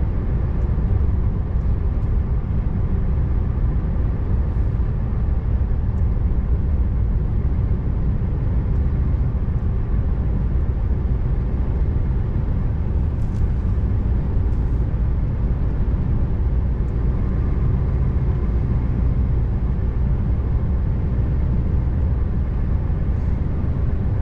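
Scania R590 V8 truck engine droning steadily with road rumble while driving at a constant pace.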